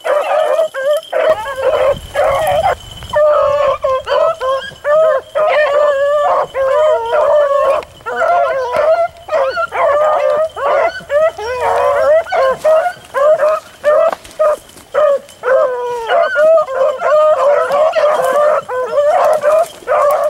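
A pack of beagles baying together while running a rabbit, many overlapping howling voices with only short breaks: hounds in full cry on the scent.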